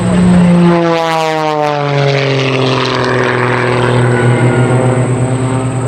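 Christen Eagle aerobatic biplanes flying past, their piston engines and propellers droning. The pitch drops about a second in as they go by, then holds steady at the lower pitch.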